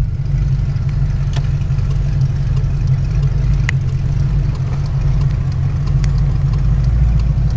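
Steady low rumble of a car's engine and road noise, heard from inside the moving car's cabin, with a couple of faint ticks.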